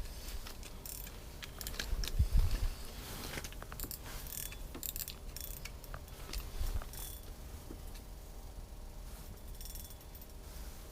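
Fishing reel gears and clicks as a hooked lake trout is played through the ice, with a few dull thumps about two seconds in.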